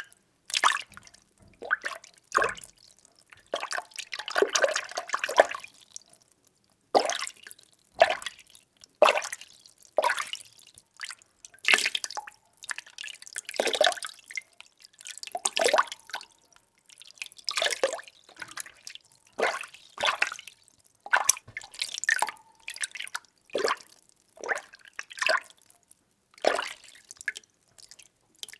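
Water being stirred: short splashes and drips about once a second, with quiet gaps between them, and a longer stretch of sloshing about four seconds in.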